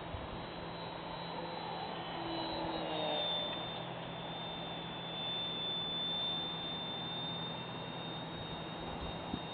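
Electric RC model airplane, a scale Cessna CR2 racer, flying with a thin high motor whine over a steady rush of air noise. The sound swells twice as it passes.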